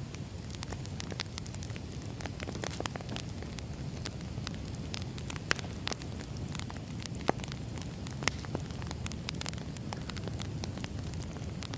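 Burning firewood crackling: irregular snaps and pops over a low steady rumble, with a few sharper pops midway.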